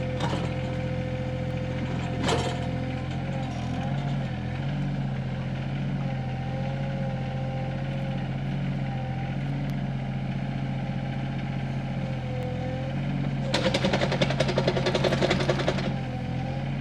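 Sany SY26U mini excavator's diesel engine running steadily, with a hydraulic whine that rises and falls as the arm and bucket move. A knock sounds about two seconds in, and near the end comes a couple of seconds of rapid crunching and grinding as the 12-inch bucket breaks rock out of the post hole.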